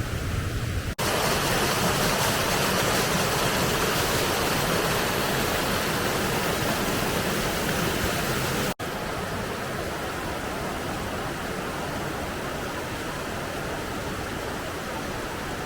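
Waterfall cascades pouring, a steady dense rush of water. Two abrupt breaks, about a second in and near nine seconds in, each change the sound as it switches between different falls.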